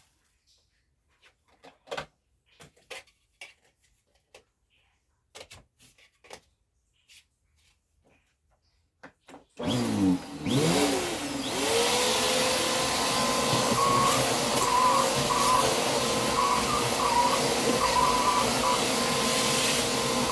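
A few light clicks and knocks, then about halfway through a vacuum cleaner switches on: its motor spins up with a rising whine and settles into a loud, steady run with a constant hum.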